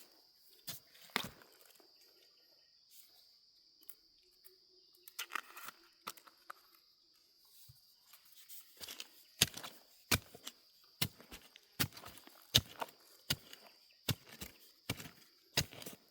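Scattered knocks and rustling, then about halfway through steady chopping with a blade, one sharp stroke a little more often than once a second. A steady high-pitched drone runs underneath.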